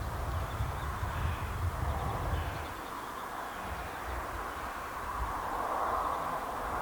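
Crows cawing, harsh calls over a noisy outdoor background, with a low rumble on the microphone in the first two and a half seconds that then stops.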